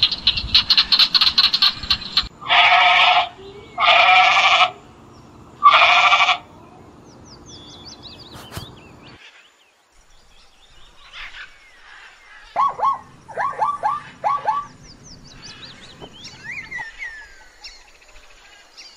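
A series of animal calls. First a rapid rattling trill, then three loud, long, drawn-out calls about a second and a half apart. Later, after faint chirping, comes a quick run of about five short, falling yelps typical of a zebra's barking call.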